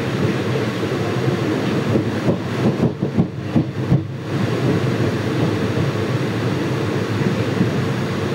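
Passenger coach of an express train running at speed: a steady rumble of wheels on the rails mixed with rushing air at the open door. About two to four seconds in, a short run of irregular low thumps.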